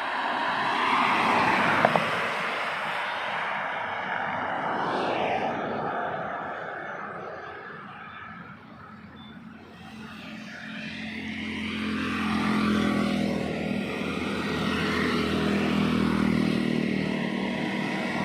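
Trucks driving past: one goes by loudly at the start with a sharp click about two seconds in and fades away, then another truck's engine drone builds from about halfway through as it approaches.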